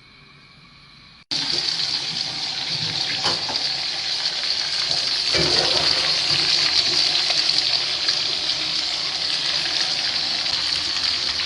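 Chicken pieces deep-frying in hot oil: a loud, steady sizzle that starts abruptly about a second in.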